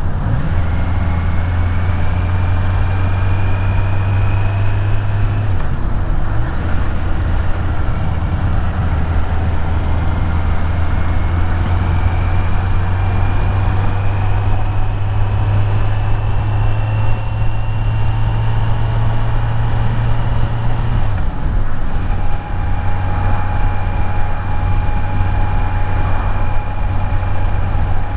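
Kawasaki Z900's inline-four engine running at a steady road speed, heavy wind rushing past the rider. The engine note rises slowly, with brief breaks about six seconds and twenty-one seconds in.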